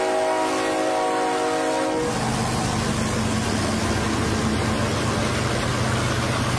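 Freight train's diesel locomotive horn sounding, cutting off about two seconds in, then the passing diesel locomotives running with a steady low engine drone.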